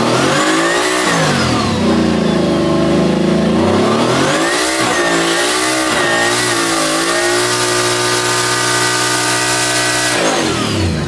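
Truck engine revving hard during a burnout, the tires spinning with a steady hiss. The revs rise and fall twice, then hold high for about three seconds before dropping away near the end.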